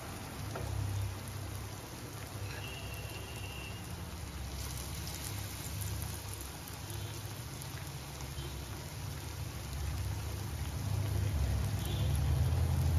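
Malpua batter shallow-frying in hot ghee, a steady sizzle as fresh batter is ladled into the pan, growing louder near the end.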